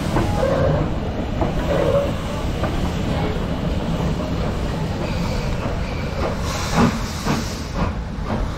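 Train running on the line: a steady rumble, with a few sharp clicks of wheels over rail joints about seven seconds in.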